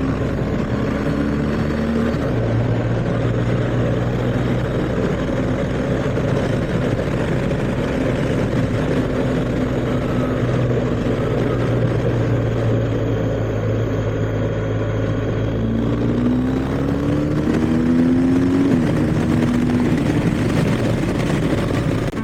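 BMW R1250GS boxer-twin engine running on the road at a steady pitch with a steady rushing noise over it, then revving up twice near the end, its pitch rising and dropping back as it shifts up.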